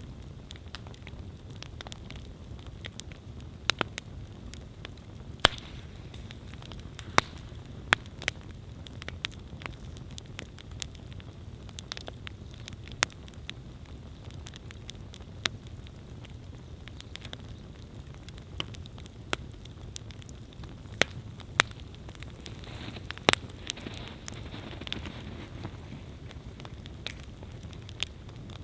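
Wood campfire burning: a steady low rumble of flames with sharp, irregular pops and crackles every second or two, and a short stretch of hissing a little over three-quarters of the way through.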